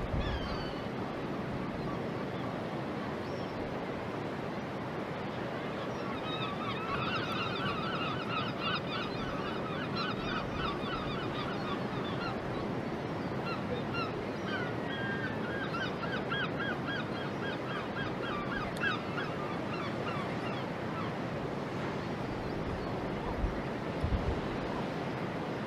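A bird calling in two long runs of rapid, repeated honking notes, over steady background noise.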